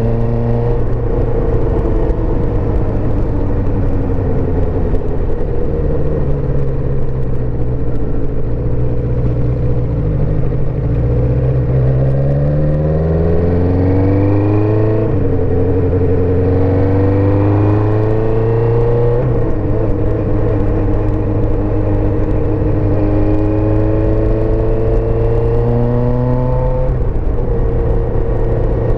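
1984 Suzuki GSX-R400's inline-four engine running under way: steady at first, then revs climb about halfway through, with two sharp drops in pitch as it shifts up, before settling into steady running for the rest.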